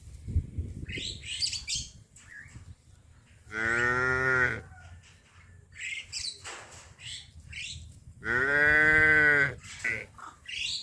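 A cow mooing twice, each moo about a second long and a few seconds apart, with a low voice that swells and falls in pitch.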